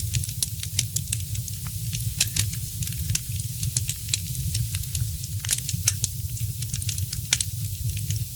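Fireplace fire crackling: many irregular sharp pops and snaps, several a second, over a steady low rumble.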